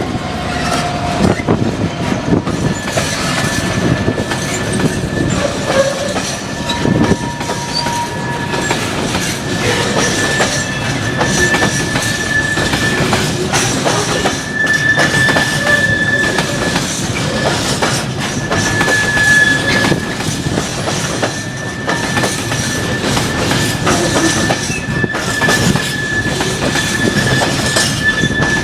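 A train running along the track, with a high wheel squeal that comes and goes and irregular clicks from the wheels passing over rail joints.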